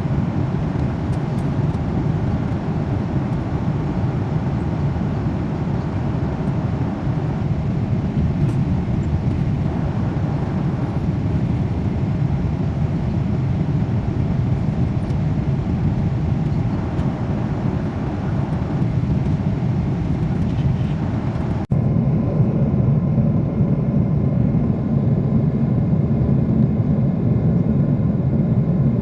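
Steady roar of an airliner cabin in flight: engine and airflow noise heard from inside the plane. About two-thirds of the way through it cuts and resumes slightly louder, with a faint steady hum on top.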